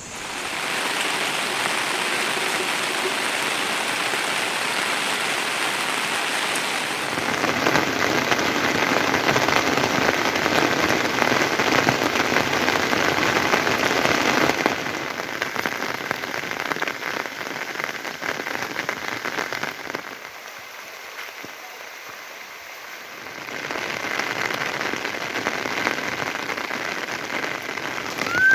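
Steady rain falling. It grows heavier about a quarter of the way in, drops back around the middle, turns fainter for a few seconds in the last third, then picks up again.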